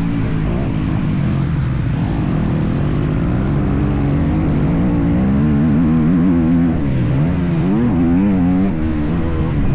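Motocross dirt bike engine running hard, its pitch rising and falling over and over as the throttle is opened and closed, with several quick swings near the end.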